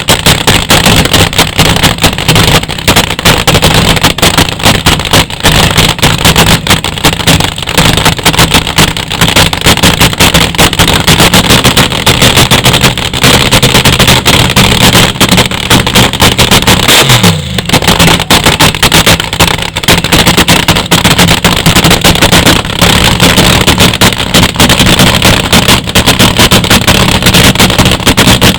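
Loud, unmuffled drag-race car engine running steadily at idle in rapid firing pulses. About 17 seconds in it briefly dips and its pitch slides down before it settles back to the same idle.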